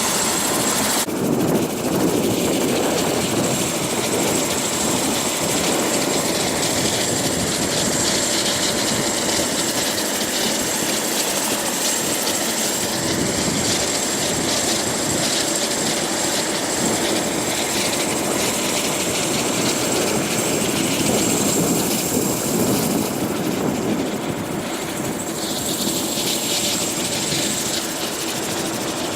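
Helicopter in flight heard from the cabin: a steady, loud din of rotor and engine, with a thin high whine that fades for a while midway and comes back.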